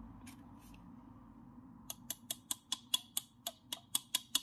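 Rapid, evenly spaced clicking, about five clicks a second, starting about halfway through, over a faint low hum.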